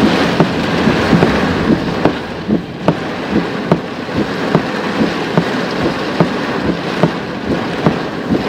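Car cabin noise while driving through a storm: a steady rush of tyres, rain and wind, with many sharp irregular ticks and knocks.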